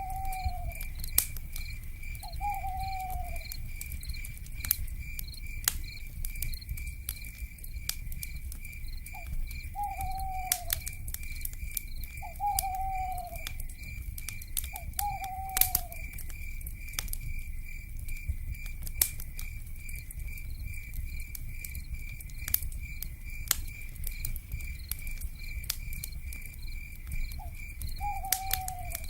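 A crackling wood fire with scattered sharp pops over a low rumble, under a steady, evenly pulsing high chirp of night insects. Six times, an owl gives a short call that slides down in pitch.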